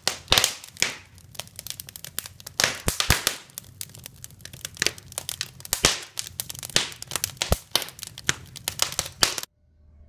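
Wood fire crackling and popping in an open brick fireplace, with irregular sharp cracks, several per second. It cuts off suddenly near the end.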